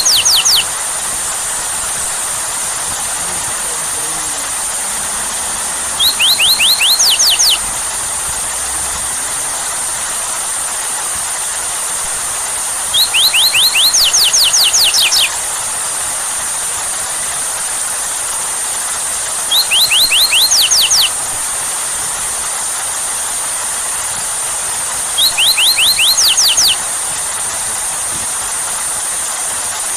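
Steady rain hiss, with a bird calling a quick run of sweeping, whistled notes about every six to seven seconds, five times, each run louder than the rain.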